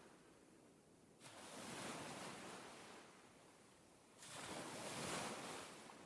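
Faint ocean surf: a wave surges in about a second in and another about three seconds later, each washing in quickly and slowly fading away.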